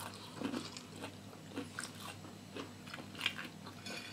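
Crunching and chewing of crispy fried banana fritters (pisang goreng) close to the microphone, an irregular scatter of short crisp crackles.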